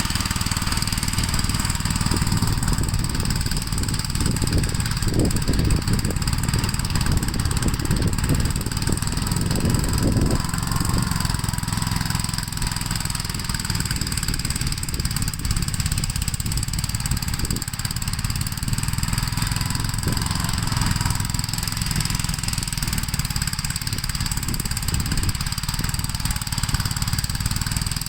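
Gravely walk-behind tractor's single-cylinder engine running steadily.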